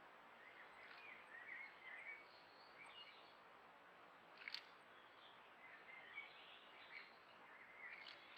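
Faint birdsong of small birds: short chirps and twitters scattered throughout, with a sharp click about four and a half seconds in and another near the end.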